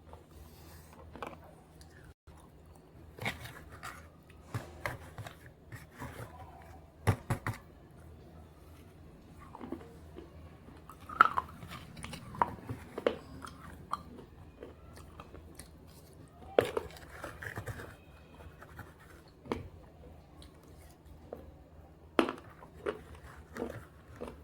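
Brittle slate pencil pieces being bitten and chewed: irregular sharp crunches, a few much louder bites among smaller grinding crunches.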